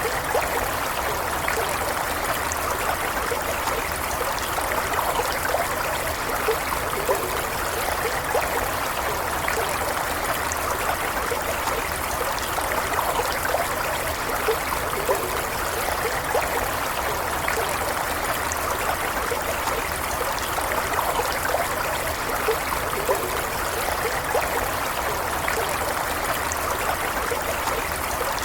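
Small stream of running water flowing and trickling steadily, with light gurgles and splashes scattered through it.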